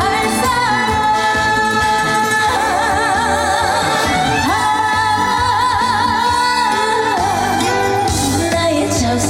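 Live traditional trot song: a woman singing long held notes with strong, wide vibrato over band accompaniment.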